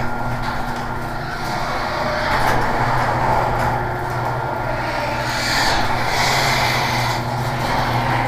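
Electric garage door opener running steadily, its motor humming under the noise of the door rolling up along its track.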